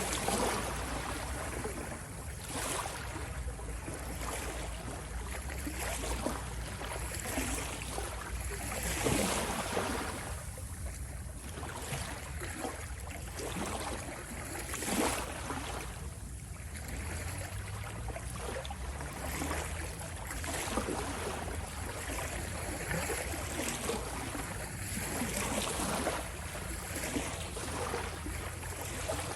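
Ocean waves washing and splashing, the surge swelling and easing every few seconds, over a steady low rumble.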